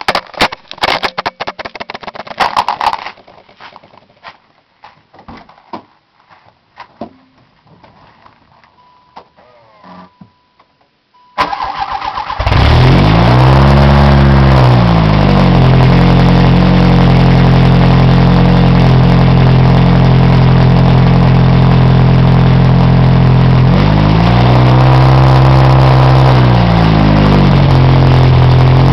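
Scattered clicks and knocks and a brief chime, then the starter cranks for about a second and the Dodge 600's four-cylinder engine catches, revs once and settles into a loud idle through a Borla Pro XS muffler. It is blipped twice more near the end.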